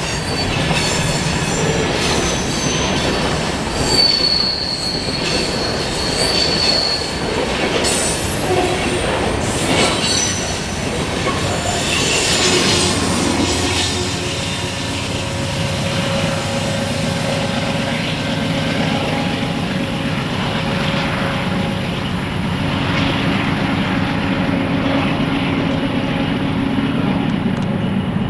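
A freight train rolling past with the cars' wheels squealing in high, shifting tones, loudest about four to seven seconds in. Through the second half there is a lower steady rumble.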